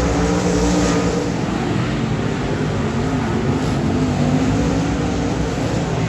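Race car engines running on a dirt oval, a steady drone of several engines whose pitch wavers slightly as they circle the track.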